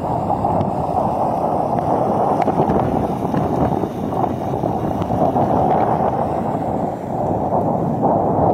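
Strong cyclone wind buffeting the microphone: a loud, steady, low rumbling noise that wavers in strength.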